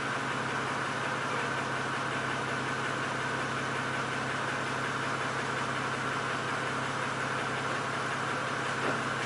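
A BMW E92's N52B25 2.5-litre straight-six, running decatted headers into a custom exhaust with twin 80 mm tips, idling steadily while warm, heard from outside the car.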